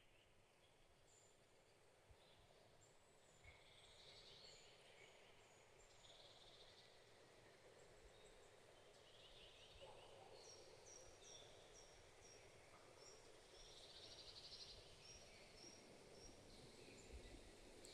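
Faint birdsong from several birds: series of short high calls and a few trills, about four seconds in, around six seconds and near fifteen seconds, over a soft steady hiss.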